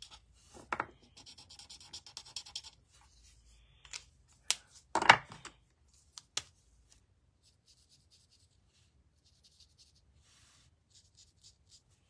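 Ink being rubbed onto cardstock with a blending tool in quick repeated strokes, then a few sharp knocks about five seconds in, followed by lighter, fainter strokes.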